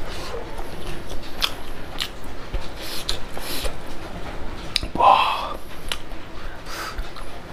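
Close-miked chewing and wet mouth smacks of a man eating rice and pork curry with his hand, with a scatter of sharp clicks and one louder short mouth sound about five seconds in.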